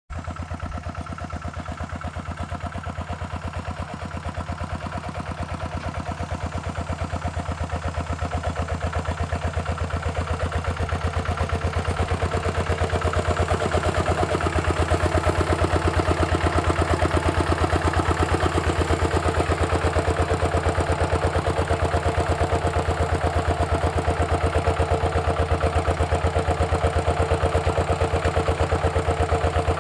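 Walking tractor's single-cylinder diesel engine running with a fast, even putter, growing louder about halfway through and then holding steady.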